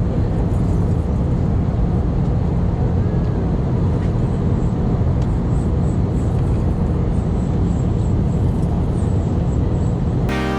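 Steady engine and airflow noise inside the cabin of an Airbus A319 on approach: an even low rumble with a hiss over it. Electronic music cuts in abruptly at the very end.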